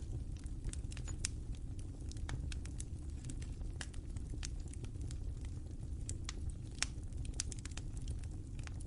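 Wood fire burning: irregular crackles and pops over a low steady rumble of the flames, with a few sharper pops standing out.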